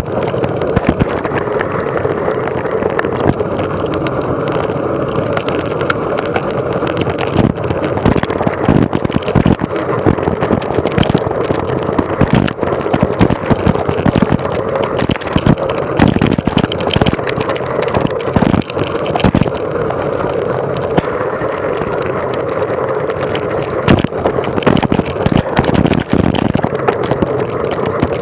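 Mountain bike ridden over rough ground, the bike rattling with frequent sharp knocks from bumps and wind rushing over the microphone.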